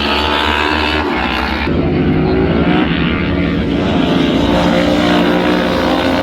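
Superbike engines running on the circuit, several bikes at once, their pitch rising and falling as they pass.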